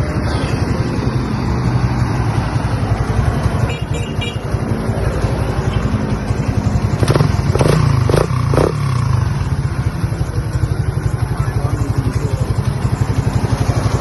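Motorcycle engine running steadily with a fast, even pulse, and four quick sharp blips about halfway through.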